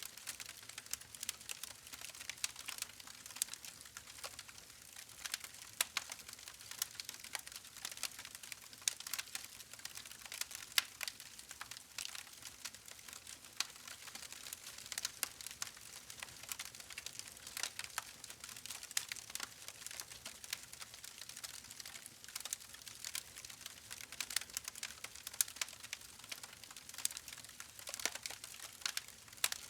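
Campfire wood burning with a steady hiss and dense, irregular crackles and pops.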